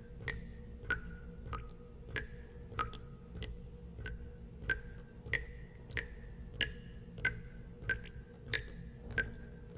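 Water drops falling one by one into water at an even pace, about one every two-thirds of a second. Each drop makes a short ringing plink, and the pitch shifts a little from drop to drop. A steady low hum runs underneath.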